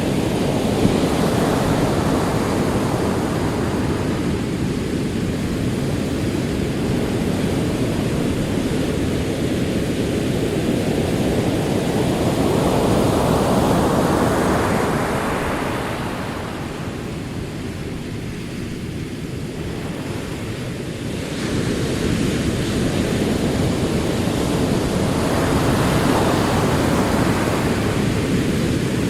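Ocean surf rolling in: a continuous rushing wash that swells to a crest about halfway through, drops back for several seconds, then builds again as the next waves come in.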